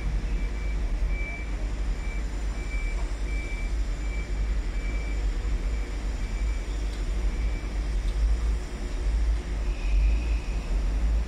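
LNER InterCity 225 electric train (Mk4 driving van trailer leading, Class 91 locomotive at the rear) starting to pull out, with a heavy low rumble. A high beeping sounds about twice a second and stops about eight seconds in.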